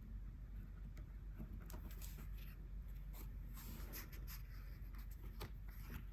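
Light, scratchy strokes on paper, several in quick succession, thickest in the middle: the sound of paint swatching by hand.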